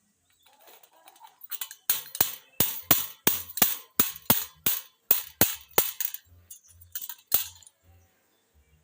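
An agitated pet parrot striking its beak on a hard surface, a quick series of sharp clicks about three a second, starting about one and a half seconds in and stopping shortly before the end.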